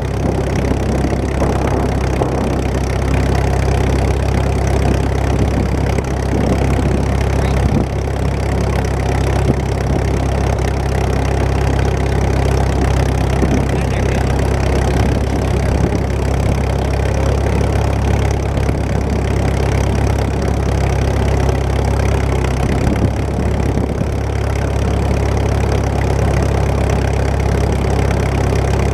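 Antique tractor engine running steadily at low speed, loud and close.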